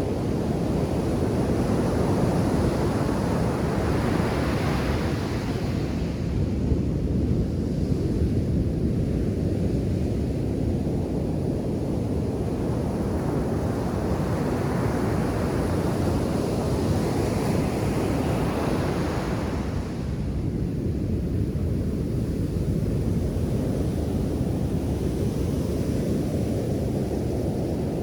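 Ocean surf breaking on a beach: a steady low rush of waves, with three broken waves hissing as they wash up the shore, the longest swell a little after halfway.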